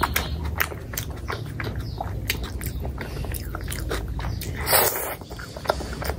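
Close-up chewing and biting of fatty pork belly in curry, with many short wet mouth clicks and smacks. A louder burst of wet noise comes about five seconds in.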